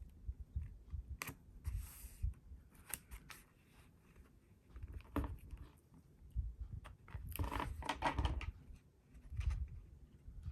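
Washi tape and paper being handled on a desk as a strip of tape is laid down on a journal page: scattered small clicks and dull knocks, with a longer rustle about two seconds in and another about eight seconds in.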